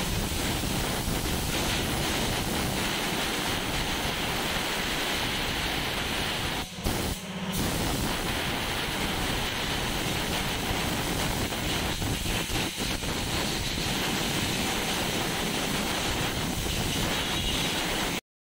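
Steady loud hissing, rushing noise, briefly broken about seven seconds in and cut off abruptly near the end.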